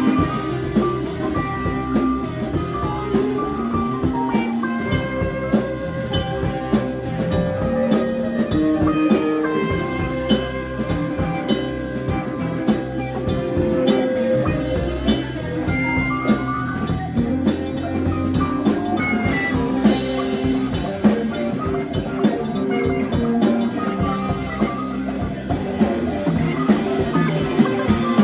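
Live rock band playing an instrumental passage: guitar over bass and a drum kit.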